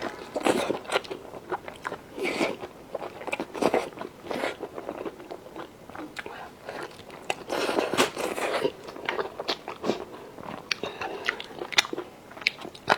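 Close-miked eating: a person biting and chewing, with irregular crunchy, crackly clicks and wet mouth sounds.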